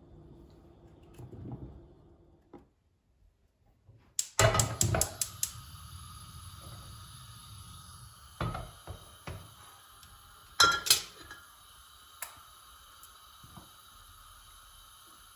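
Kitchen utensils and cookware clinking: a quick run of metal and glass clinks about four seconds in, then single knocks a few seconds apart, over a steady hiss.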